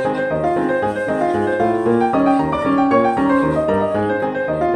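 Background piano music: a gentle melody of quick notes over steady bass notes.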